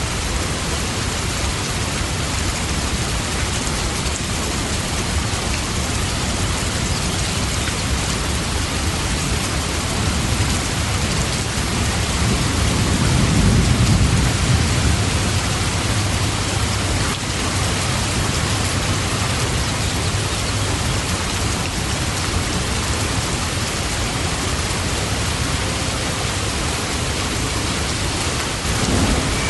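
Steady rain falling evenly. About halfway through, a low rumble of thunder swells and fades.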